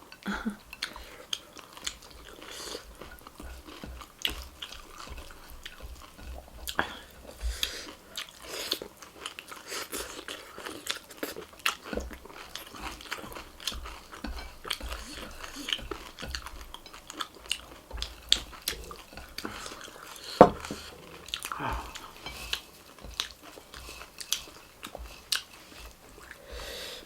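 Close-up chewing and crunching of a mouthful of dry beaten rice (chiura) with meat and spicy potatoes: a continuous stream of small crackling crunches. There is one louder crack about two-thirds of the way through.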